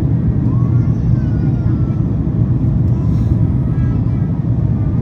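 Steady, loud cabin drone inside a Boeing 767-400ER airliner during its approach descent: engine and airflow noise, a deep even rumble.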